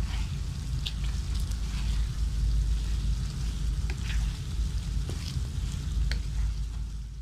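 Chicken pieces sizzling and bubbling in a honey-orange glaze in a pan as a spatula stirs them, with a few sharp ticks scattered through.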